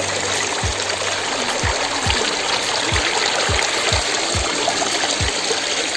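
Steady rush of water from a waterfall, with a deep kick-drum beat from background music about twice a second.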